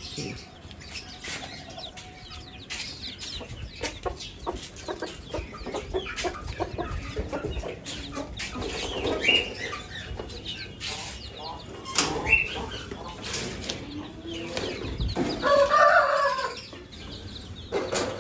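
Chickens, a rooster among them, clucking with wing flaps and many small scratches and knocks. About three-quarters of the way through, one loud call about a second long rises over the rest.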